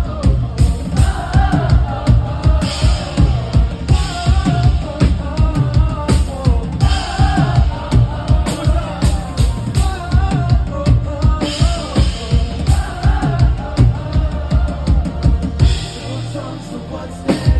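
Live pop band music: a steady kick-and-snare drum beat under a sung melody. The drums drop out briefly near the end, then come back in.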